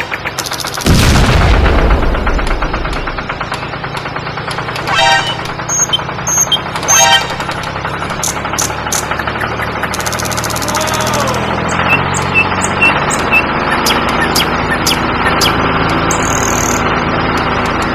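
Cartoon sound effects over background music: a heavy boom about a second in, then rapid rattling, a falling whistle and four short beeps near the end.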